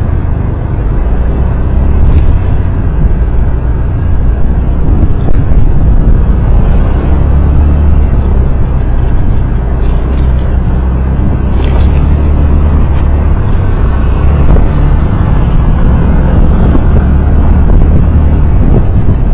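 Steady, loud low rumble of a vehicle driving on a road: engine and road noise.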